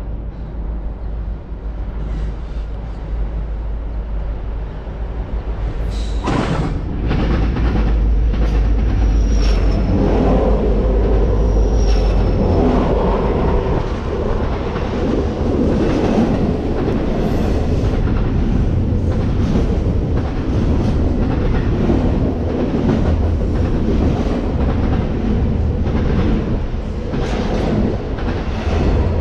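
A train passing close by: a low rumble that builds over the first several seconds, then steady rolling noise with irregular clacking of wheels over rail joints, and a brief thin wheel squeal partway through.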